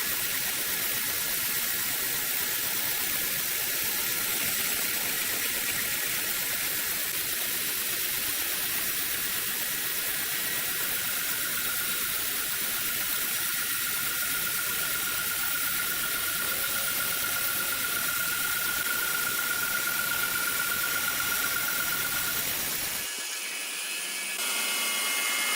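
Steady hiss of running machinery with a faint whine in the second half; the sound changes abruptly near the end.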